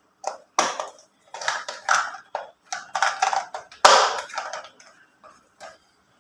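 Plastic toy-vehicle parts being handled and pressed together: irregular clicks and crackling rustles, the loudest about four seconds in.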